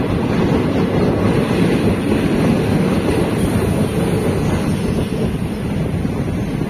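Wind buffeting the microphone over the steady running rumble of a moving passenger train.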